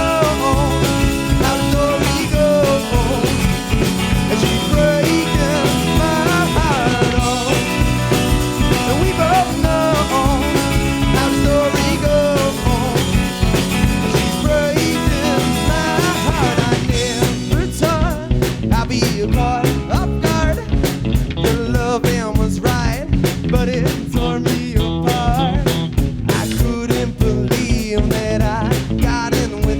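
Rock band playing an instrumental passage of a song live, with no lead vocal; a little over halfway the rhythm turns busier, with sharper, quicker hits.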